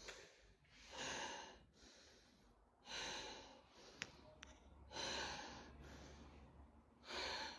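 A man breathing heavily close to the microphone: four loud, noisy breaths about two seconds apart, with a faint click in between.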